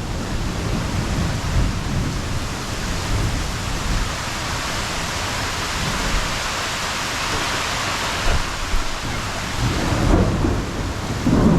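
Thunderstorm: steady heavy rain with thunder rumbling low underneath, the rumble swelling again near the end.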